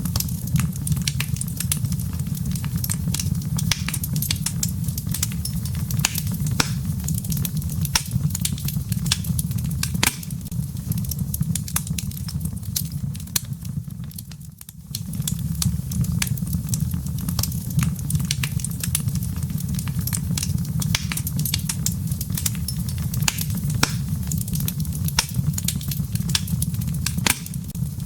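Wood fire burning in a fireplace: dense crackling and popping of the burning logs over a steady low rumble. The sound dips briefly about halfway through.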